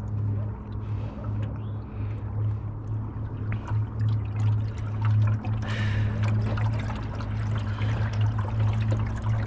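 Boat motor running steadily, with water rushing and splashing along the hull, the splashing heavier in the second half.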